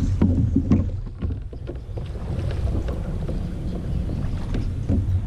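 Water sloshing against a kayak's hull, with wind rumbling on the microphone and a few light knocks.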